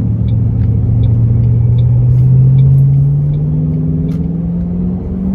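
Ford Mustang with a Roush Extreme axle-back exhaust under gentle acceleration, heard from inside the car: a steady exhaust drone whose pitch climbs slowly as the revs build, easing slightly near the end.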